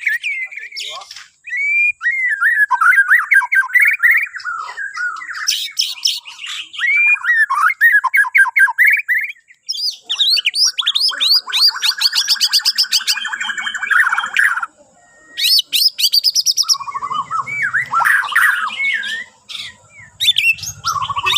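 A Bornean shama (murai batu Borneo) singing a long, varied song without pause: gliding whistled phrases, fast rattling trills and harsher chattering notes.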